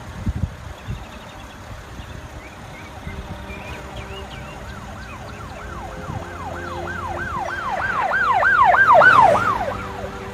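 An emergency vehicle's siren in a fast yelp, rising and falling about three times a second. It comes in faintly, grows louder to a peak near the end, then fades, over a low traffic rumble.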